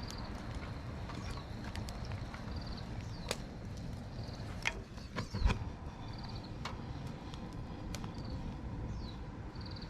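Wood fire crackling in a homemade steel fire pit, with sharp irregular cracks over a steady low rumble. A bird repeats a short call, a quick downward slide and a brief buzzy note, every second or two.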